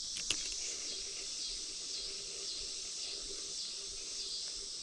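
Insect chorus: a steady high-pitched trilling that swells and fades in an even pulse, with one sharp click about a third of a second in.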